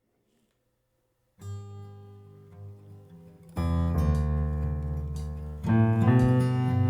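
Acoustic guitar starting a song: silent for the first second or so, then soft picked notes, then full strummed chords, clearly louder from about halfway in.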